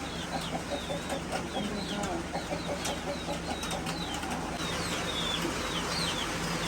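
A flock of chickens crowded together, clucking in rapid runs with many high, falling peeps over a steady low hum.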